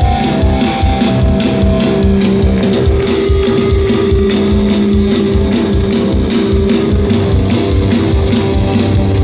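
Live hardcore band playing an instrumental passage at loud volume: distorted electric guitars holding notes over fast, steady kick drum and bass.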